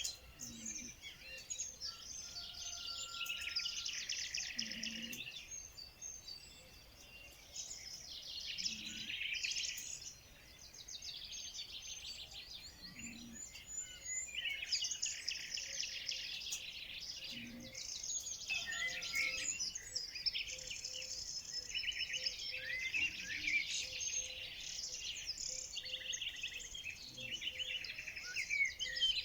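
Several songbirds singing and chirping at once, in dense overlapping phrases that come and go every few seconds, with a short low note repeating about every four seconds underneath.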